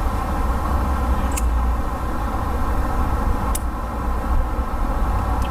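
Steady low outdoor rumble, with three faint clicks spread through it.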